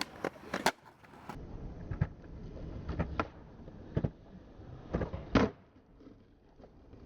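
Skateboard wheels rolling on concrete, with a run of sharp clacks from the board, the loudest about five seconds in.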